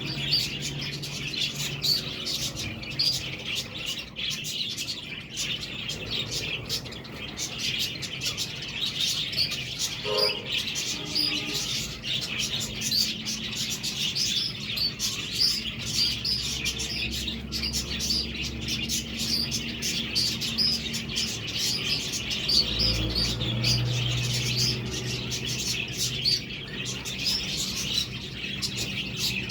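Several budgerigars chattering and warbling without a break: a dense stream of quick, high chirps and tweets.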